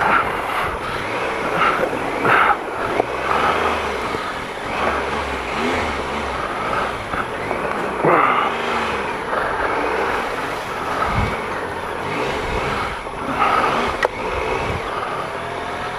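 Triumph Explorer XC's 1215cc three-cylinder engine running at low speed, its revs rising and falling as the bike is eased through deep muddy ruts on road tyres, with a few knocks as it jolts.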